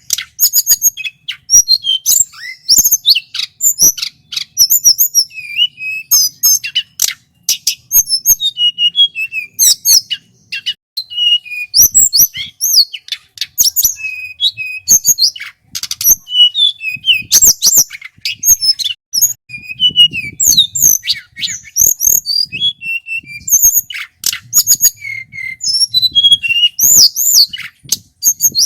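Male tledekan gunung singing a rapid, varied song of high chirps and whistles, with short breaks.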